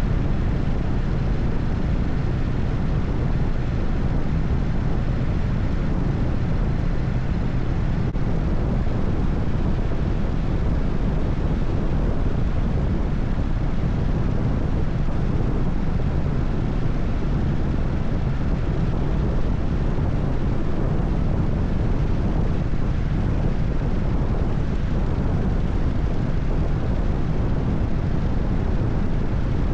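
Harley-Davidson FXSTS Springer Softail's 1340 cc Evolution V-twin running steadily at highway cruising speed, with a deep, even rumble under wind noise.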